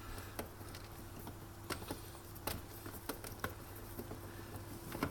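Scattered light clicks and taps of an espresso machine's parts and hand tools being handled during disassembly, over a faint steady hum.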